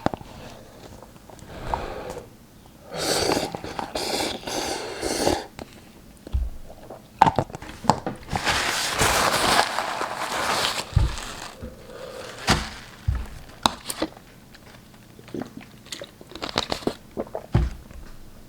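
Close-up eating sounds of 2x Spicy Buldak instant ramen: chewing and mouth noises with sharp clicks. There are two longer noisy stretches, one about three seconds in and one around nine seconds in.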